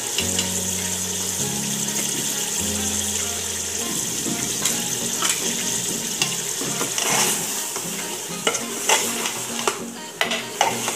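Mutton and spices sizzling as they fry in an aluminium pressure cooker. From about four seconds in, a steel ladle stirs the meat, with irregular scrapes and clanks against the pot.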